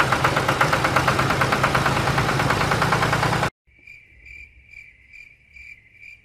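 A small engine or motor running with a rapid, even beat, which cuts off suddenly about three and a half seconds in. After it, a cricket chirps steadily, about two chirps a second.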